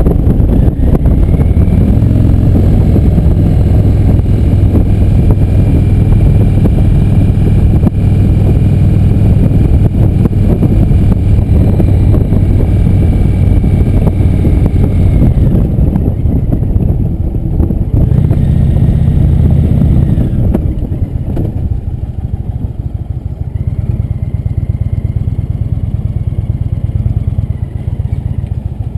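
Motorcycle engine running while riding. It eases off about sixteen seconds in, picks up again briefly, then runs quieter for the last third.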